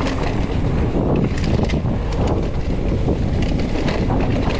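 Mountain bike descending a rough dirt trail at speed: steady wind rush over the microphone, with the tyres and the bike rattling through a dense run of small knocks and bumps.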